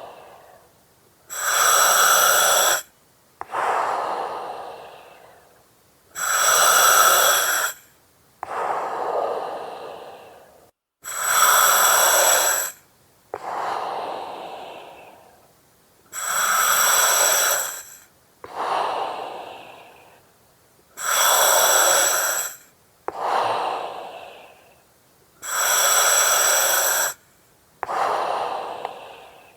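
Slow, regular breathing through an oxygen mask. A loud, abrupt hiss of about a second and a half alternates with a softer breath that tapers off, one full breath roughly every five seconds.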